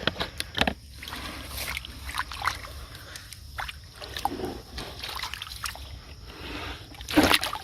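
Water splashing and sloshing in a string of short, irregular splashes, with the loudest burst of splashing about seven seconds in.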